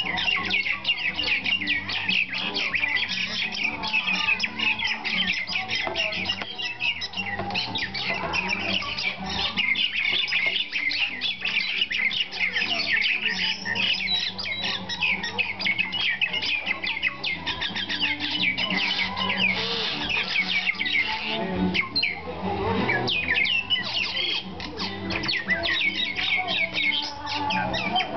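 Common mynas giving a dense, continuous chatter of rapid, harsh squawking calls, the agitated scolding of birds whose eggs have fallen from the nest.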